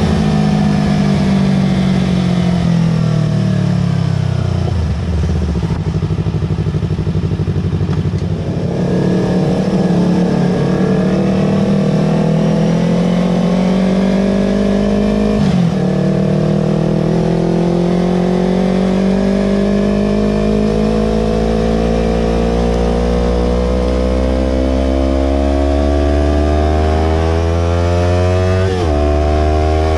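Yamaha R25's 250 cc parallel-twin engine through a Villan Pro 2 aftermarket exhaust, with the bike under way. The revs fall away for the first few seconds, then climb steadily, broken by a quick upshift about halfway through and another near the end.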